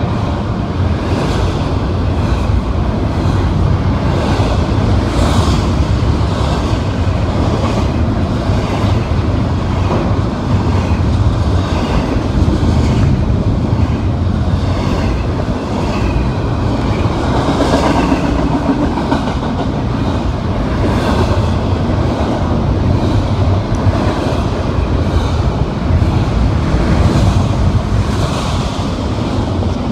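Train passing at trackside: railroad cars rolling by, their wheels clicking over the rail joints in a steady, repeating rhythm over a continuous rumble.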